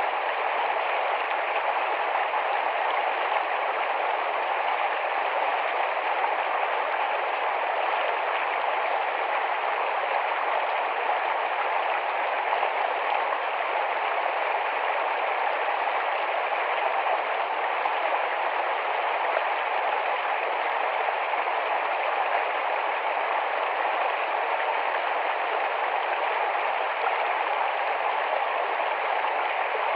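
Rapid shallow forest stream rushing and splashing over rocks, a steady unbroken wash of water.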